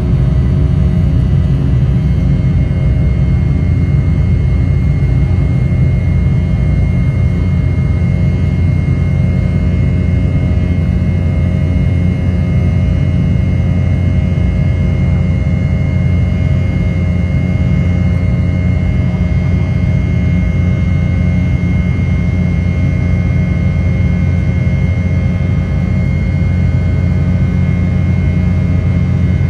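Cabin noise of an Embraer E190 airliner under power: a loud, steady roar from its GE CF34 turbofan engines and the airflow, with a steady high whine on top.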